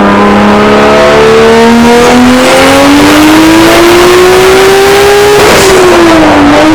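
A heavily modified, roughly 1,000-horsepower car engine pulling hard under full throttle. Its pitch climbs steadily for about five seconds, then falls away as the throttle is lifted near the end.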